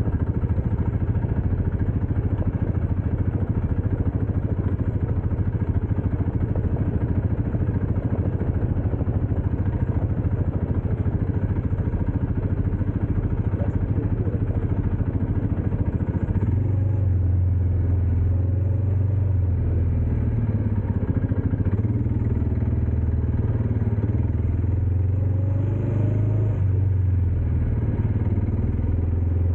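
Dirt bike engine running continuously while riding, with its sound turning smoother and steadier a little past halfway.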